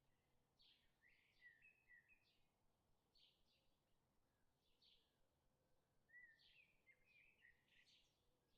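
Near silence with faint, scattered bird chirps, in two short clusters about a second in and again about six seconds in.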